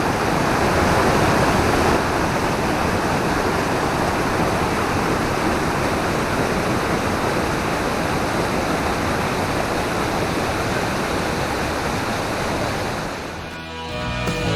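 Steady rush of a waterfall, which fades out near the end as guitar music comes in.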